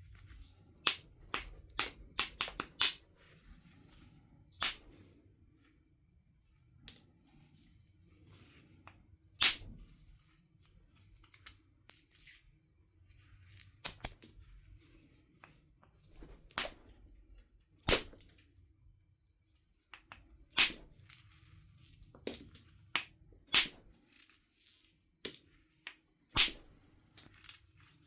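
Knife River flint biface being knapped: sharp clicking strikes and snaps of flakes coming off the stone, in irregular clusters with pauses of a few seconds between them, a few leaving a brief high ring.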